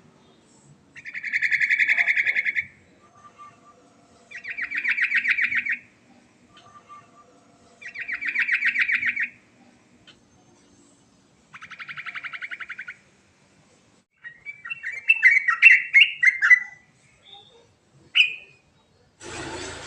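Yellow-vented bulbul (trucukan) singing: four buzzy, rattling trills of about a second and a half each, spaced a few seconds apart, then a quick, varied chattering phrase and a short note near the end.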